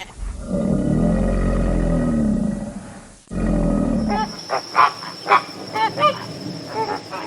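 Animal calls: a deep, drawn-out call lasting about three seconds, a shorter one after a brief break, then a rapid series of short, higher calls with a thin steady high whine behind them.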